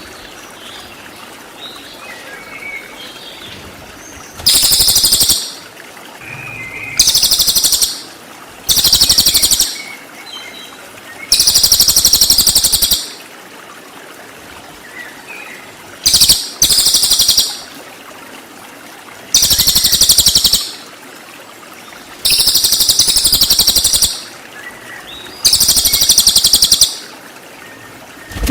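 A cililin songbird giving a series of loud, very high, rapid trills, each lasting about a second, with pauses of one to three seconds between them. About nine trills in all, over fainter background chirps.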